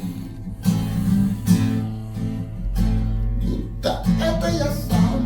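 Acoustic guitar strummed in an even rhythm of repeated chords: an instrumental passage between sung verses of a bard song.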